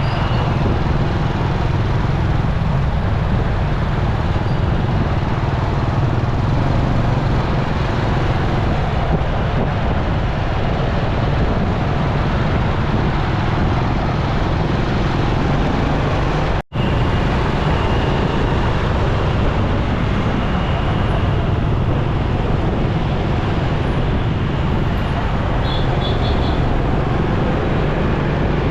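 Motorcycle riding in city traffic: steady engine and road noise, with traffic around it. The sound cuts out for an instant once, partway through.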